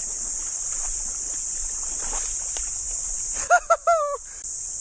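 Steady high-pitched chorus of cicadas. About three and a half seconds in, a short call of three quick rising notes and a longer falling one cuts through, and the cicada sound briefly drops out.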